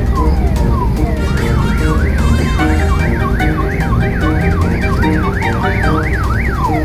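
Electronic siren wailing up and down about twice a second, over background music; a few falling swoops come just before it starts, about a second in.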